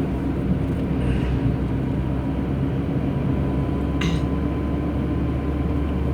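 Steady low rumble of a car's engine and tyres heard from inside the moving cabin, with a brief higher-pitched sound about four seconds in.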